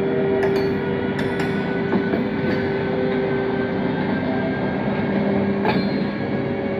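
Train running, a steady dense rumble with a constant hum through it and a few sharp metallic clicks scattered across it.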